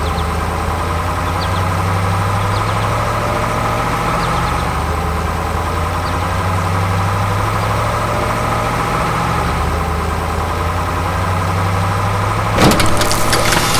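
Heavy machine's engine running steadily with a low hum. A noisy clatter starts near the end.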